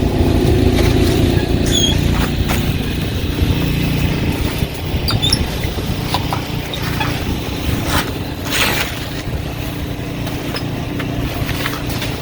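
A car's engine idling steadily, heard as a low hum, with scattered short scrapes and knocks over it.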